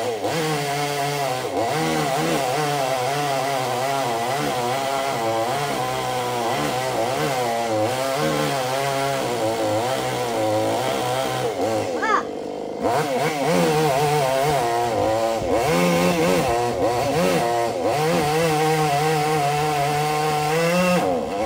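Two-stroke chainsaw engine running throughout, its pitch rising and falling as it revs and labours while cutting wood. About halfway it drops back briefly, then revs up and runs on steadily.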